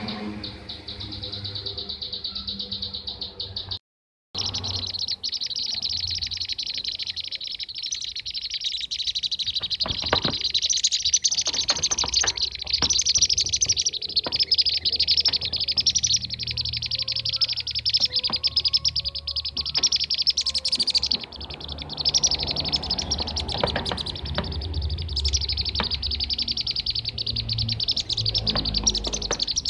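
Dense, continuous chirping and trilling calls of kirik-kirik birds (bee-eaters), many calls overlapping, with a brief complete dropout about four seconds in.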